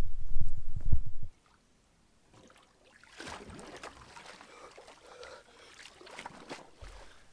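A low rumble that cuts off abruptly about a second in, then faint splashing and lapping of sea water as a person wades in for a swim.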